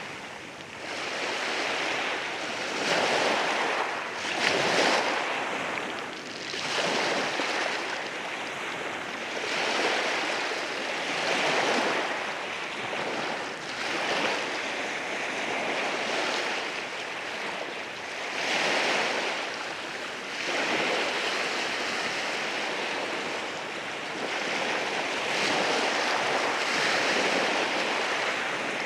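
Sea waves washing in over rocks, a continuous rush of surf that swells and falls back every few seconds.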